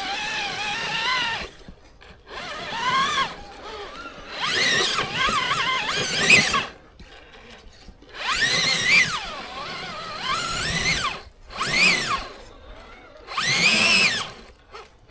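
Electric motor and gearing of an RC rock crawler whining in short throttle bursts, about six in all, the pitch rising and falling with each burst.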